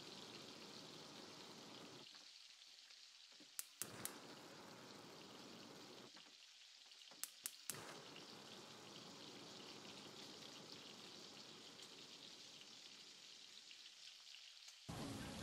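Food frying in a hot pan: a faint, steady sizzle, broken by a few sharp pops in two quick groups of three, about four and seven and a half seconds in. A louder, different sound comes in just before the end.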